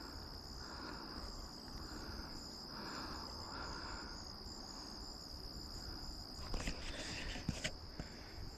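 Crickets chirping in a steady high trill. A few clicks and rustles, like the camera being handled, come near the end.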